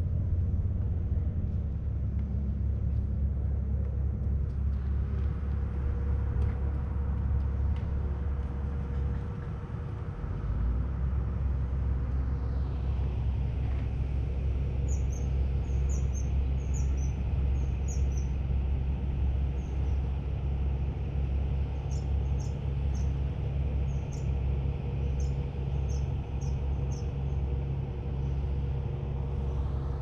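A steady low rumble throughout, with a small bird's short, high, down-slurred chirps repeating in quick runs over the second half.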